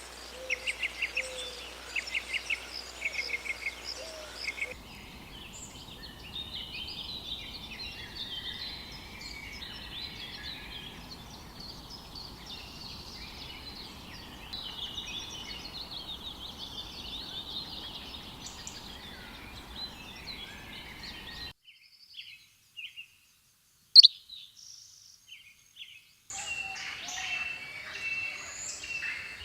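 Wild birds singing and chirping, changing abruptly as clips cut: rapid trilled phrases first, then a dense chorus of many birds. A near-quiet stretch with a few chirps and one sharp loud click follows, then more chorus near the end.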